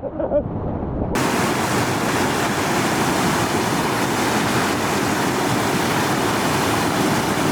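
Steady rushing water of a small waterfall. It is muffled for about the first second, then suddenly opens out clear and full.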